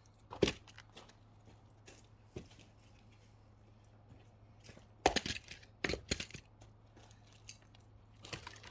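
Axe blows on firewood logs: a sharp knock about half a second in, two more around five and six seconds in, and a few lighter knocks near the end.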